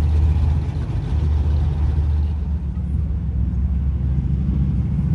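Classic car engine running at low revs as the car drives past, a steady low-pitched sound.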